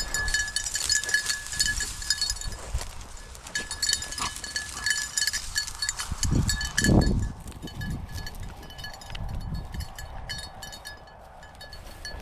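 Small bell on a bird dog's collar jingling on and off as the dog works through cover, over rustling brush. About six and a half seconds in comes a louder, low rush.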